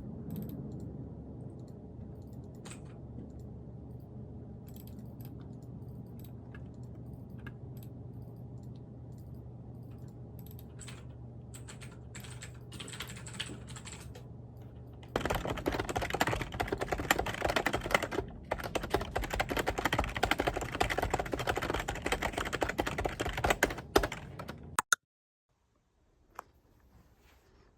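Typing on a computer keyboard. For the first half there are scattered key clicks over a steady low hum, then fast continuous typing that stops abruptly near the end.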